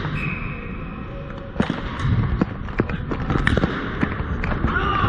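Ball hockey play: irregular sharp clacks of sticks hitting the ball and the plastic dek hockey court, coming thicker from about a second and a half in.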